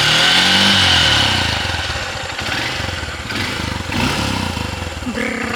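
Honda XR150L motorcycle's 150 cc air-cooled single-cylinder engine and exhaust under way, the engine note rising and falling as the rider accelerates and eases off. The bike runs quiet and gentle.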